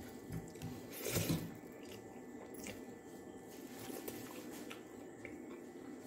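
Chewing a mouthful of rice and curry eaten by hand, with soft squishing of rice being mixed by fingers on the plate. It is loudest about a second in.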